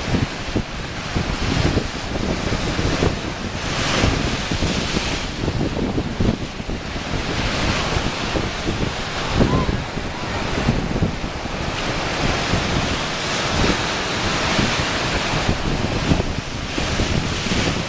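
Ocean waves lapping and washing against shoreline rocks in a continuous rush that swells every few seconds, with wind buffeting the microphone.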